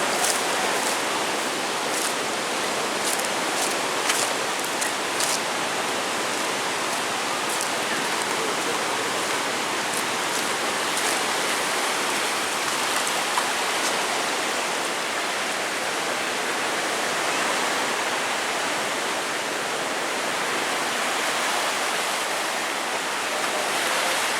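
Steady rushing of turbulent river water surging with the incoming tide, with a few faint ticks over it in the first five seconds.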